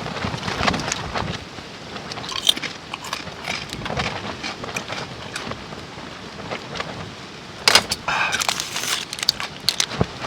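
Crinkling of a snack packet and crunching of snacks, with a denser run of crackles about eight seconds in. Steady rain patters underneath.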